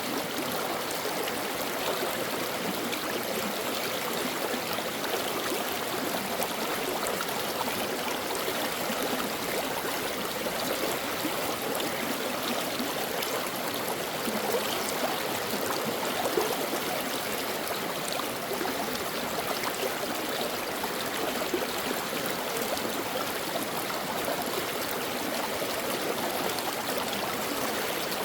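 Stream water flowing over rocks, a steady babbling rush with small splashes and trickles.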